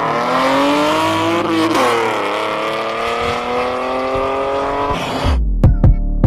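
A car engine accelerating hard. The pitch climbs, drops at an upshift about two seconds in, then climbs again through the next gear. Near the end it cuts to electronic music with a heavy beat.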